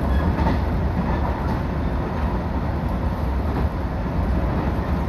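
Sanyo Line electric train running along the track, a steady low rumble of wheels on the rails.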